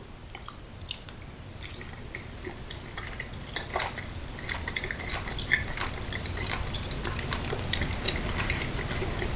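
A person chewing a mouthful of flaky grilled salmon, heard as many small scattered mouth clicks, with now and then a light clink of a metal fork on a plate.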